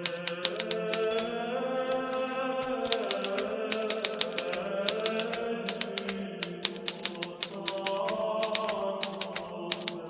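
Hermes Baby portable manual typewriter typing at a steady pace, keys striking in quick irregular succession, over soft background music of slowly changing held notes.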